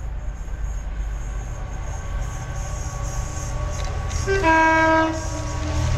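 Diesel freight locomotive's engine rumbling steadily and growing louder as it approaches. About four and a half seconds in, its two-tone horn sounds: a brief note, then a longer one lasting under a second.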